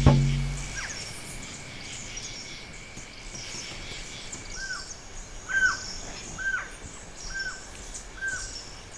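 Wild birds calling in forest: a steady scatter of thin high chirps, joined about halfway through by a short arched call repeated about once a second.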